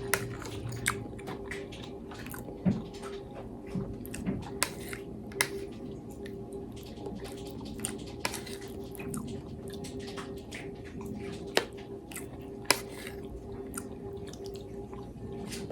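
Close-miked chewing and mouth sounds of a person eating, with scattered sharp clicks and smacks. A steady low hum runs underneath.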